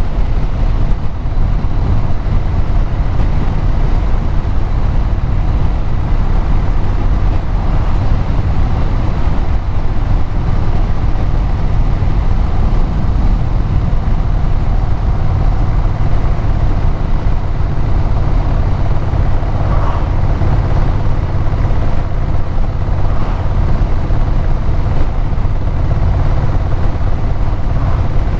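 Vehicle engine and exhaust running steadily while riding, with road and wind noise; a faint steady whine comes in about halfway through.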